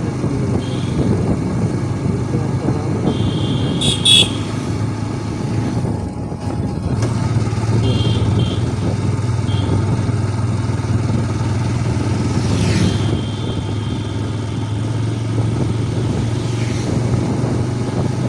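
Motorcycle engine running steadily while riding along a road with traffic. A brief loud sharp sound comes about four seconds in.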